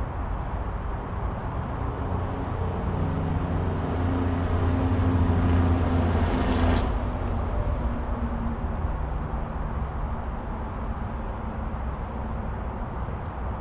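An engine running, with a low steady rumble that grows louder over several seconds and then stops abruptly about seven seconds in; a low background rumble continues.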